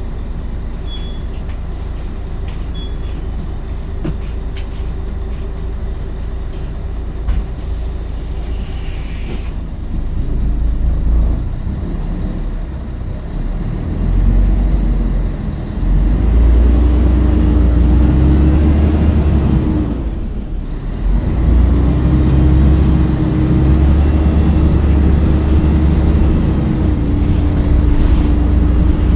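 Scania L113CRL bus's diesel engine idling steadily, then pulling away and accelerating, with a brief dip in the engine note about twenty seconds in as it changes gear before pulling on again.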